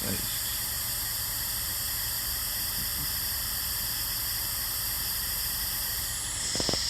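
Steady hiss with a low rumble underneath, with a couple of faint clicks near the end.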